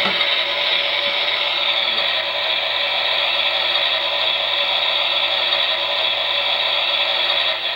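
Toy washing machine's small electric motor running steadily, a constant whir with some rattle from the drum.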